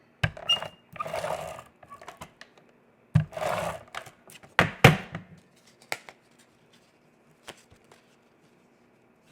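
Cardstock pieces being handled and pressed together by hand: two short scraping rustles and a handful of sharp taps and clicks, fading to a few faint ticks in the second half.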